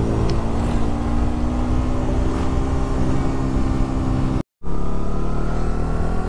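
Suzuki GSX Bandit 150's single-cylinder engine running under way with the motorcycle, its pitch creeping slowly up as it gains speed, over a heavy low rumble. The audio cuts out completely for a moment about four and a half seconds in.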